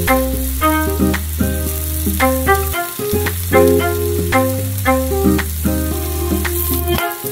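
Onions sizzling in a frying pan, under background instrumental music with short notes over a held bass line.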